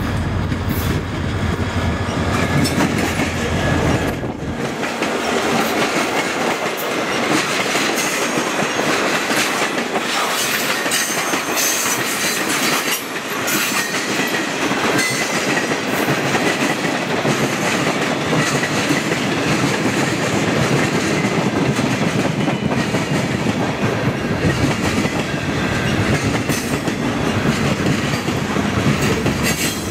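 A freight train passing close by. The diesel locomotives' engines rumble past in the first four seconds or so. After that a long string of tank cars and boxcars rolls by, their steel wheels rumbling and clicking steadily on the rails.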